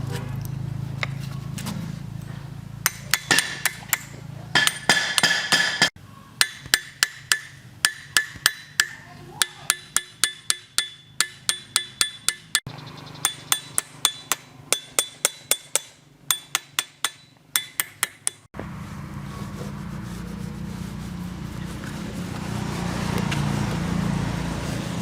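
Hammer blows on metal: a long series of sharp, ringing strikes, about two to three a second in runs with short pauses. A steady low hum comes before and after them.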